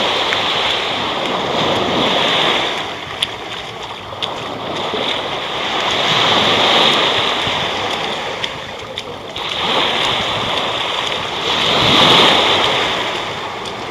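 Sea water sloshing and washing against the camera at the surface, a rushing noise that swells and fades every few seconds.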